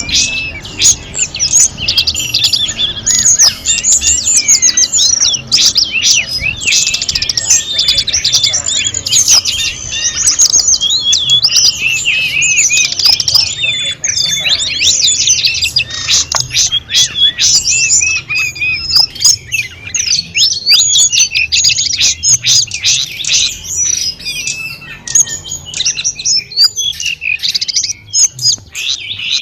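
A tledekan gunung songbird singing continuously, in rapid, varied twittering and chirping phrases, over a faint steady background of trickling water.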